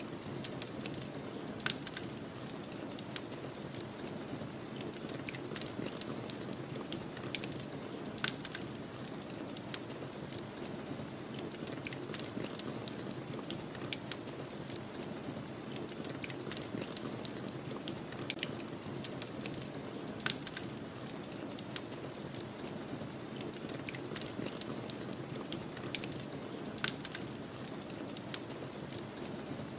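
Fire crackling, with many irregular sharp pops, over a steady low wind of a snowstorm.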